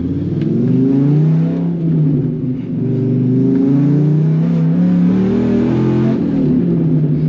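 Dodge Ram SRT-10's 8.3-litre V10, breathing through an aftermarket exhaust, pulling hard under acceleration. Its pitch rises, drops at a gear change about two and a half seconds in, then climbs again and holds.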